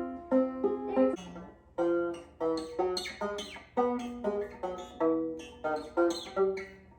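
Five-string Ortega Falcon banjo being picked: a moderately paced run of single plucked notes, each ringing briefly before the next.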